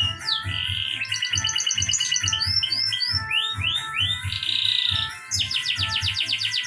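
A songbird singing a varied song: repeated falling whistles, fast rattling trills and short buzzy notes, over background music with held tones and a steady low beat.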